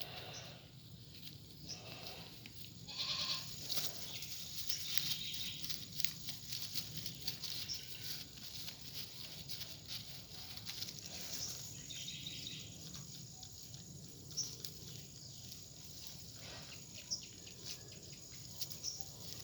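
Goats bleating a few times, with small clicks and rustles in between.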